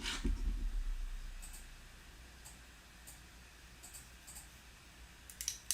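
Plastic Mega Construx building pieces clicking and tapping as they are handled and fitted, with a knock and low rumble at the start and a quick cluster of clicks near the end.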